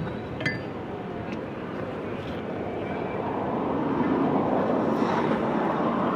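A passing engine: a rushing noise that swells to its loudest about four to five seconds in, then begins to ease. A small click about half a second in.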